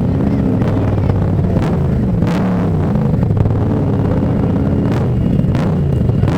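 Several motorcycle engines running and revving together, their pitches rising and falling and overlapping, with a few brief sharper bursts.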